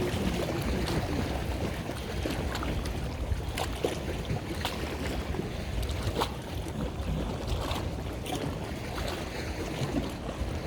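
Boat running on open water: a steady low engine rumble with water splashing and slapping, and wind on the microphone. Short sharp splashes or knocks come every second or so.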